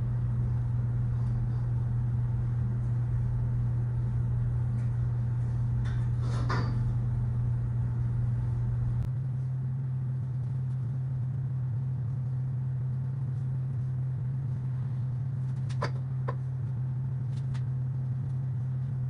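Steady low hum, with a deeper rumble under it that stops about halfway through. A few faint clicks or taps come through over the hum.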